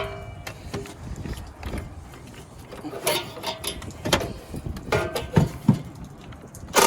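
Irregular metal knocks and clinks from hands and tools working on the exhaust under a car while the muffler is being cut off, the loudest about three, four and five and a half seconds in.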